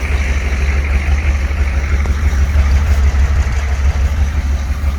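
The 1985 GMC squarebody's 6.2L V8 diesel engine running steadily with a heavy low rumble.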